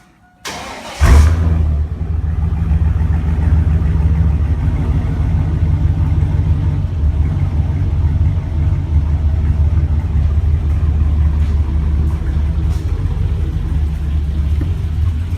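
Chevrolet Silverado pickup engine with a tune and dual performance exhaust starting: a brief crank, then it catches about a second in with a loud burst. It then settles into a steady idle.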